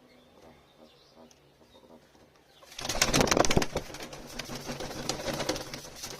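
A pigeon beating its wings: a sudden loud flurry of flaps a little under three seconds in, lasting about a second, followed by softer rustling and fluttering.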